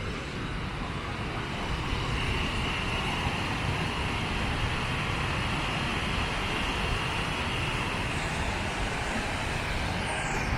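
Large waterfall's falling water rushing steadily: a dense, even hiss with a deep rumble underneath.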